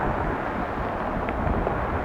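Jet engines of a Boeing 757-300 airliner, a steady roar with a strong low rumble.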